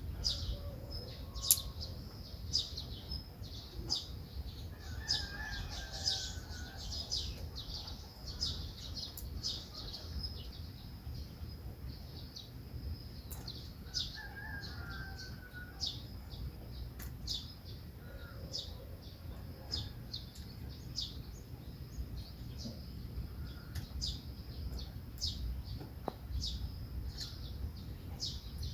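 Small birds chirping: many short, high chirps in quick succession, with a lower falling call every several seconds, over a steady low rumble.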